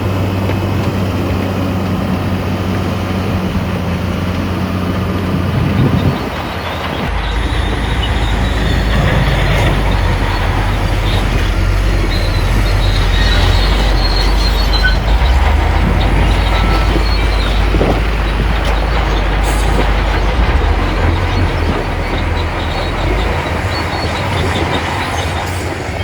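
Bulldozer diesel engine running steadily, then settling into a deeper, heavier rumble about six seconds in, with high metallic squeals from the steel crawler tracks in the middle and near the end.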